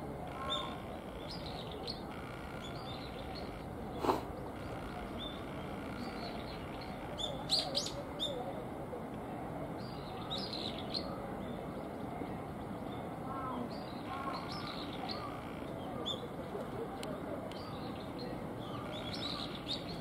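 Small birds chirping now and then with short high calls over a steady background noise. A single sharp click about four seconds in.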